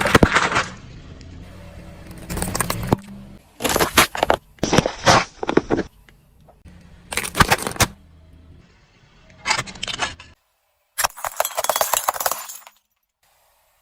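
Objects cracking and crunching under a car tyre in a run of short, separate bursts with a clinking, glassy edge, over a low engine hum in the first few seconds.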